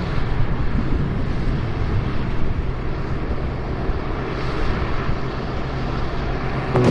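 Harvest machinery running steadily: a steady low engine hum under a wide rushing noise.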